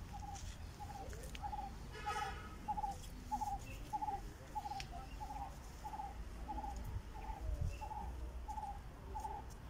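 A bird calling one short note over and over at an even pace, about one and a half notes a second, over a low rumble.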